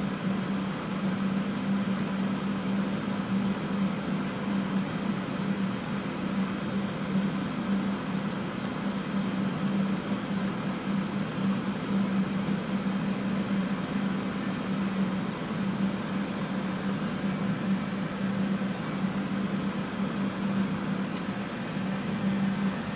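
Ventilation fans running steadily for soldering fumes: an even whir with a steady low hum.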